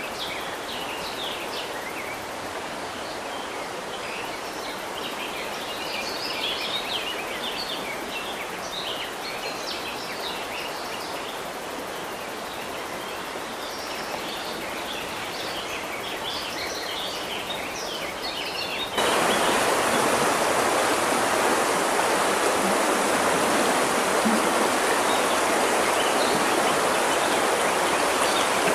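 River water flowing steadily with many small birds chirping over it. About two-thirds of the way through it cuts abruptly to louder rushing water with no birdsong.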